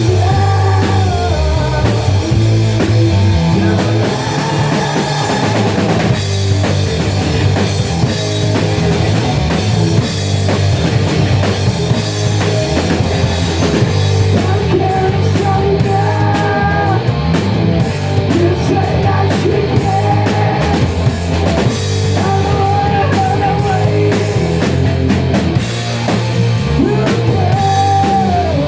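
Rock music played loud, with drum kit, guitar and a singing voice carrying the melody.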